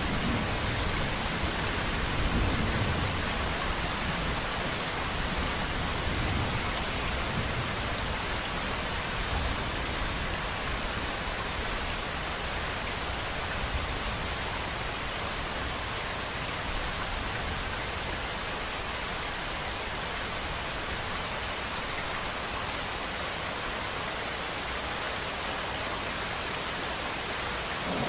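Steady, even rainfall, drops hitting a surface. A low rumble underneath in the first few seconds fades out, leaving the rain alone.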